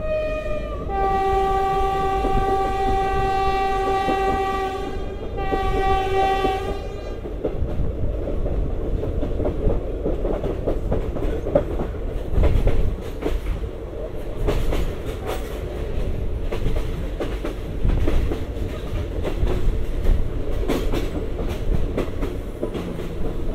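Train horn blowing: one long blast of about four seconds and then a second, shorter blast after a brief break. The train then runs on with a rumble and repeated clacks of the wheels over rail joints.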